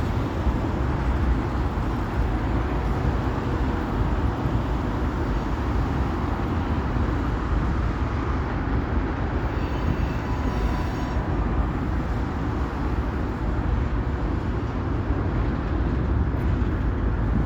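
Train running, with a steady, even rumble and rush that is heaviest in the low range.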